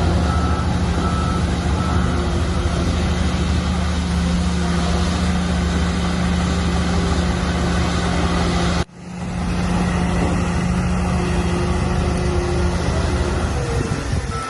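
Bulldozer's diesel engine running steadily under load, with a deep steady drone. There are faint intermittent beeps in the first couple of seconds. The sound cuts out abruptly about nine seconds in and comes back within a second.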